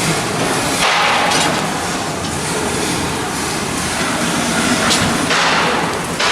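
Shipyard steel-fabrication noise during hull block assembly: a continuous industrial din broken by several harsh noise bursts, each lasting about a second.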